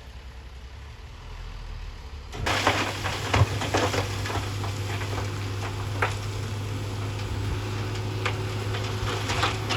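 Heavy earthmoving machine engine running steadily, with rock and gravel crackling and clattering over it. It comes in abruptly about two and a half seconds in, after a quieter stretch.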